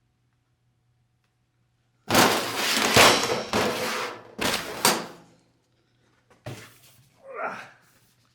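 Heavy handling noise: a long rough scrape and rustle starting about two seconds in, several sharp knocks and thuds, then a shorter scrape near the end, as a heavy boxed portable power station is moved and set down. A faint low hum runs underneath.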